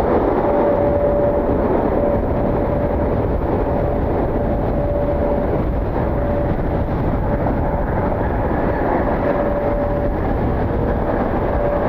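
Jet airliner engines running steadily, a rumbling roar with a constant whine on top, mixed with wind buffeting the microphone.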